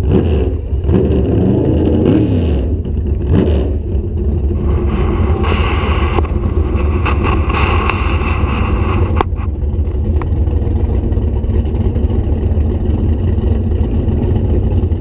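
A car engine revs in a few quick throttle blips, then runs at a steady deep idle as the car creeps up to the drag strip's starting line.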